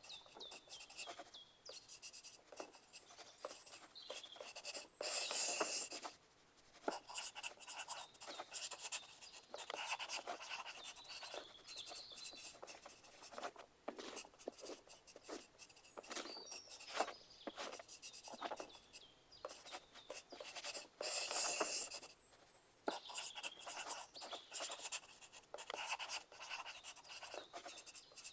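Pencil writing on paper: a steady run of light scratching and tapping strokes with uneven loudness. Two denser, louder scratching passages of about a second each come about five seconds in and again near the end.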